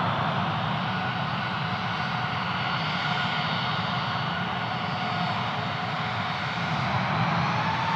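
Airbus A319 jet engines running steadily, a continuous roar with a faint whine that drifts slightly in pitch.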